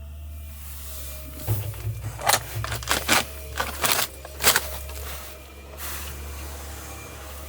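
An irregular run of sharp clicks and knocks, about a dozen in three seconds, like small hard objects being handled, over a steady low hum.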